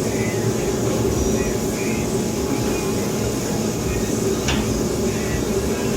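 Steady whirring hum of a forced-air (bullet) shop heater running, with one light knock about four and a half seconds in.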